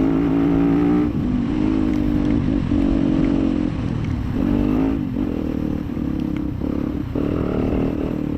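Off-road dirt bike engine running under throttle, its pitch rising and falling repeatedly as the rider opens and closes the throttle, with short dips about halfway and near the end.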